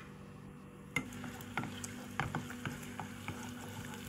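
Ground garlic and shallot paste sizzling in hot oil in a pan as it is stirred with a silicone spatula. The sizzling sets in about a second in, with scattered light ticks and scrapes.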